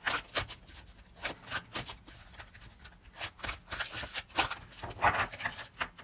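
A deck of oracle cards being shuffled and handled: a run of quick papery flicks and slaps, loudest a little after five seconds in.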